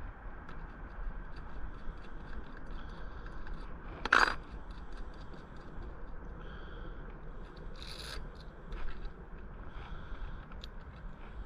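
Hand tools and metal parts of a homemade bolt-and-socket bearing press being worked loose: scraping and light clicking, with one sharp knock about four seconds in and a short scrape near eight seconds.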